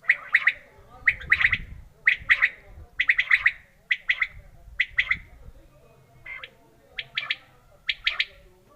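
Quail calling: short, sharp notes in clusters of two to four, repeated about once a second.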